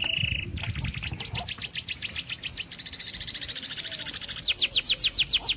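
Birds singing in fast trills: several runs of rapid repeated notes at different pitches, the loudest a run of quick downward-sweeping notes near the end.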